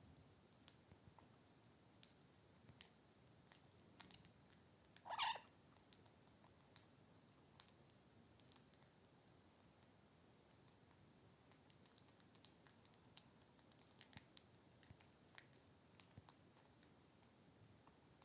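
Faint, scattered clicks of superb parrots' beaks working corn kernels while they eat. About five seconds in there is one short, louder sound.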